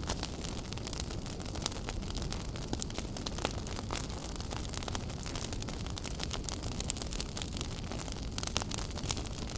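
Wood fire burning in a fireplace: a steady low rumble and hiss with frequent irregular sharp crackles and pops.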